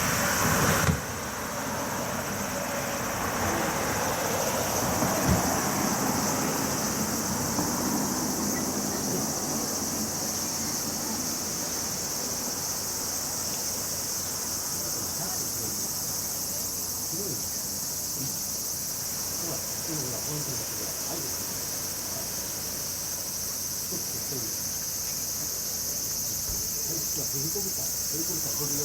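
Steady high-pitched chirring of an insect chorus on a summer evening, running without a break. There is a short louder sound right at the start, and a faint low background rumble that fades over the first several seconds.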